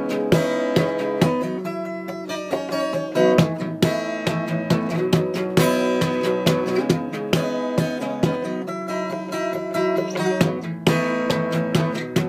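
A plucked string instrument playing a melody: a quick, steady run of plucked notes, each ringing on under the next.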